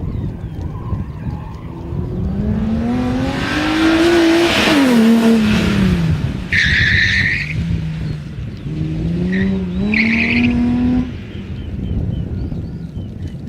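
Drifting BMW E30's engine revving up and dropping back twice, with a rush of tyre noise at the top of the first rev. The tyres squeal in short screeches about halfway through and again at the top of the second rev.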